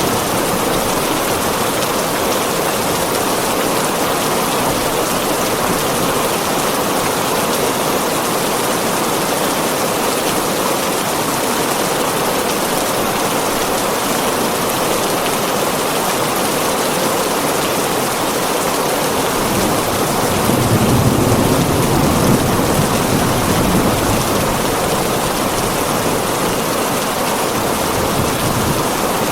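Heavy rain pouring steadily onto a tin roof. About twenty seconds in, a low rumble of thunder swells for a few seconds and fades.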